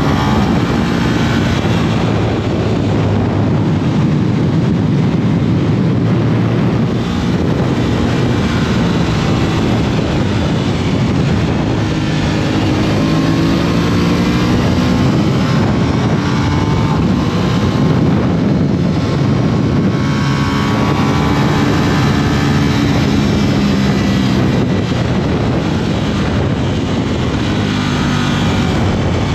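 Aprilia RS 660's parallel-twin engine running under way, its revs rising and falling several times as the bike accelerates and slows, over a steady rush of wind and road noise.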